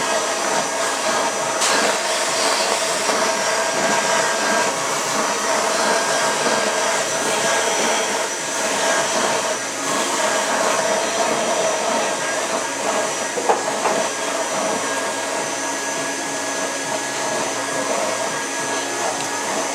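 Build-A-Bear stuffing machine running steadily, its blower whooshing fiberfill into a plush with a constant motor whine, and a short knock about two-thirds through.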